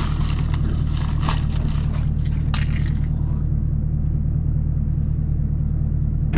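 Car engine idling, a steady low hum heard inside the cabin, with a few faint knocks in the first few seconds.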